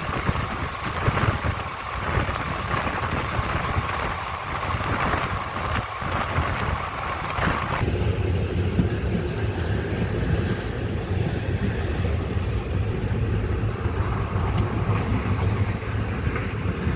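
Running noise of a moving Indian Railways passenger train heard from the side of a coach, with wind buffeting the microphone. About eight seconds in, the higher hiss drops away sharply, leaving a steadier low rumble.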